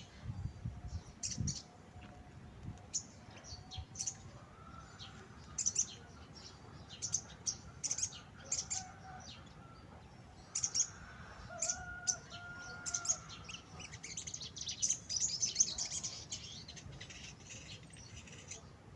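A caged sogon, a crimson sunbird, giving short high chirps that run into a quick burst of twittering about fifteen seconds in. The bird has begun to sing again after being poorly kept.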